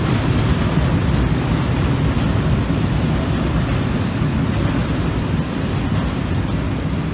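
Freight train of flat wagons loaded with steel coils rolling past: a steady heavy rumble of wheels on rail that eases slightly near the end as the last wagons go by.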